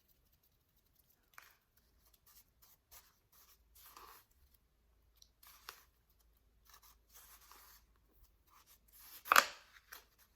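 Soft, powdery ice crunching close to the microphone: a string of short, quiet crunches, with one loud crunch about nine seconds in.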